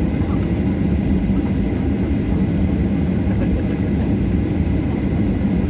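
Jet airliner engines running: a loud, steady low rumble with a faint high whine.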